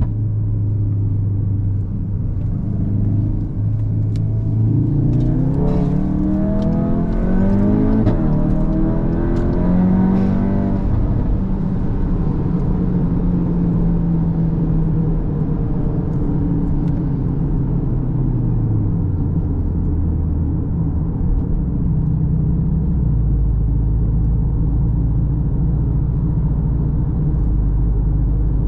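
Cupra Formentor VZ's turbocharged 2.0 TSI four-cylinder heard while driving. About four seconds in, the engine note climbs in steps under hard acceleration through the gears. It then settles to a steady cruise, and after a drop in pitch a little past halfway it runs on as a low drone.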